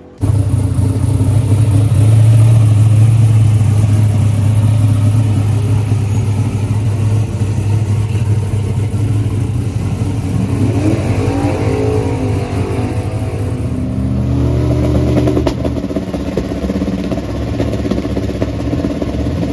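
Drag race car engine idling loudly and steadily, with its pitch rising and falling for a couple of seconds around the middle.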